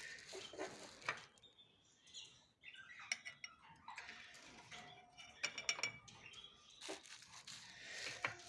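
Small cage birds chirping, mixed with scattered sharp clicks and clinks, like cage wire or feed dishes being handled.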